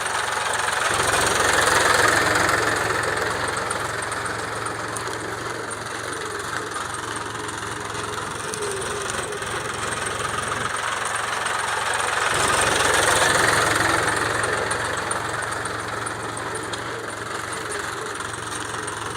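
Mahindra tractor's diesel engine running steadily, swelling louder twice: about two seconds in and again around thirteen seconds.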